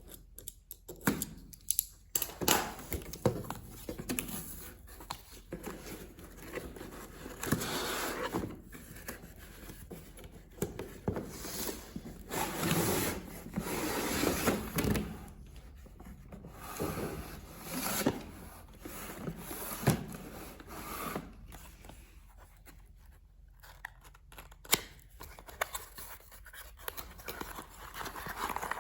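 Cardboard and plastic packaging of an RC toy being handled, scraped and torn open, with scattered sharp clicks.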